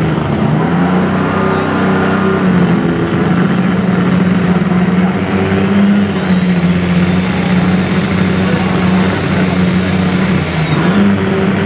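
Alcohol-burning Oliver 2150 super stock pulling tractor's engine running loud and steady at full throttle under load, pulling the sled. A high whine comes in about halfway and holds until near the end.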